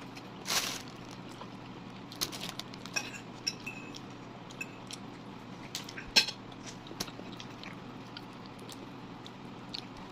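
Cutlery and dishes clinking and knocking while eating: scattered sharp clicks, some with a brief ring, with the loudest about six seconds in.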